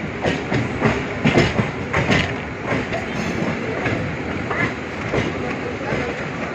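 Passenger train coach rolling slowly along the track, with wheels clattering in irregular knocks over rail joints and points. Heard from the coach's open doorway.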